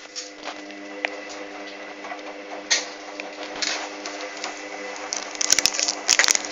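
Hoover washing machine's motor humming steadily as it tumbles the drum during a wash, with scattered clicks and knocks that get busier near the end.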